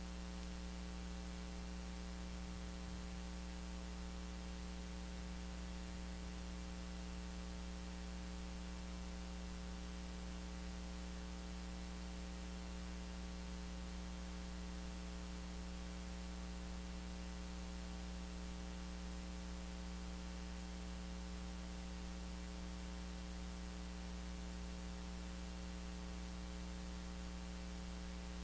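Steady, unbroken low hum with an even hiss and no other events: the room tone of a quiet church hall.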